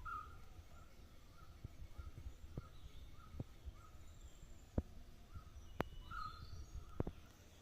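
Birds calling outdoors: one bird repeats a short note about twice a second, with fainter, higher calls and trills from other birds. Scattered sharp clicks and a low rumble sit underneath.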